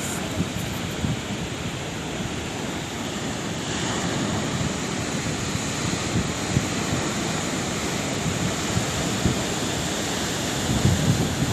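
Sea surf: waves breaking and washing ashore as a steady rushing noise, with wind buffeting the microphone in low thumps.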